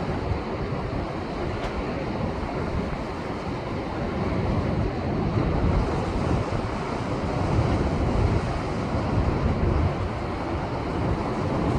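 Heavy post-typhoon surf washing against a rocky shore, a continuous deep rush of breaking waves that swells and eases, with wind buffeting the microphone.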